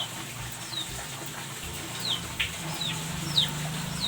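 Chickens calling: a run of short, high peeps that slide downward in pitch, roughly one a second, over a low steady hen's croon that grows louder about halfway through.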